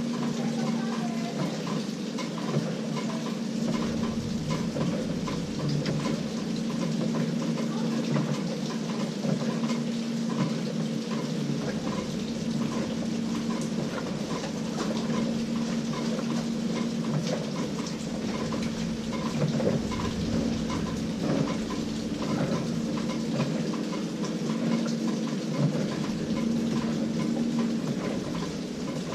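LG 18 kg top-load washing machine running a delicate cycle: water sloshing and splashing in the tub over a steady motor hum, with a low rumble coming and going.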